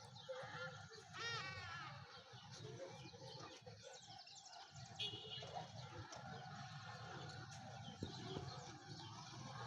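Several birds chirping and singing in quick, overlapping phrases over a low, steady rumble.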